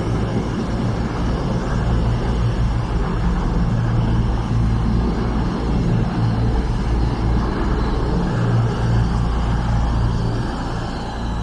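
A train at the platform running steadily: a loud, continuous low drone with a strong hum.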